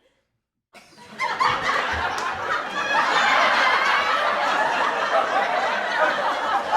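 A group of people laughing together, many overlapping voices, starting abruptly about a second in after a silent gap.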